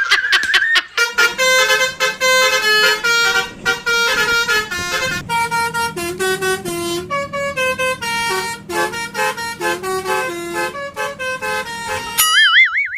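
Basuri telolet bus horn playing a fast tune of short, stepped horn notes, with a faint steady low hum under it. Near the end the melody gives way to a brief warbling tone that wavers up and down.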